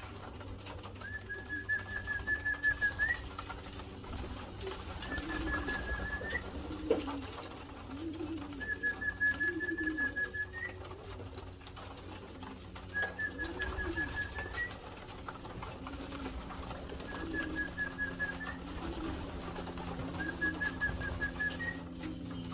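Domestic racing pigeons cooing in their loft, a string of low rolling coos. A high, rapid trill that lifts at its end repeats about every three and a half seconds over a low steady hum.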